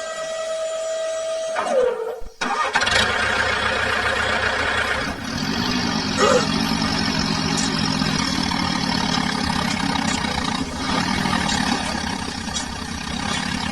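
A held tone that drops in pitch and breaks off, then an engine starts running steadily about two and a half seconds in.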